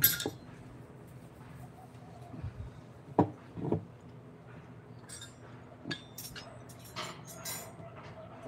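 Scattered sharp knocks and light clinks of hard objects being handled and set down: a loud clink at the start, two heavier knocks a little past three seconds, then a run of lighter, brighter clicks.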